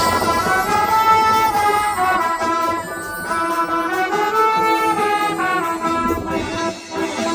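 Brass band playing a melody in held notes, several parts together.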